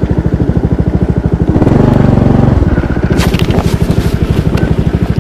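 Motorcycle engine idling with a steady, even pulse, revved briefly about two seconds in. A few light clicks follow just past the middle.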